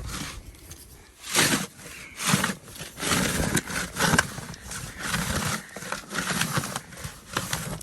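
Snow shovel scraping and scooping snow in a series of separate strokes, about one a second.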